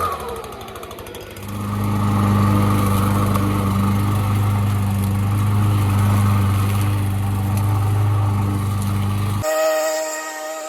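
Hedge trimmer motor running: it settles low, then rises to a steady, even drone about a second and a half in, which breaks off abruptly near the end.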